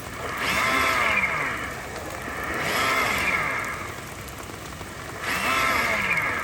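RC crawler's electric motor and gearbox whining in three throttle bursts, each rising and then falling in pitch, over the steady hiss of rain.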